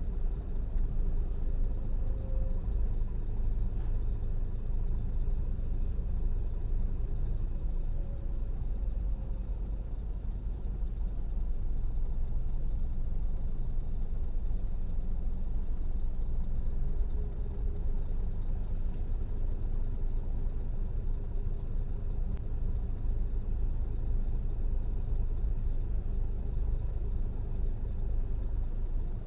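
Steady low rumble of a car being driven: engine and tyre noise with no sharp events.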